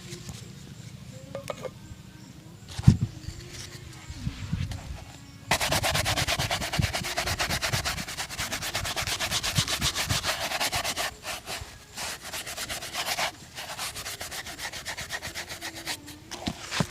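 A shoe being rubbed in a street shoe shine: quiet scraping with a single sharp knock about three seconds in, then a long run of fast, even rubbing strokes starting about five seconds in, breaking into shorter spells near the end.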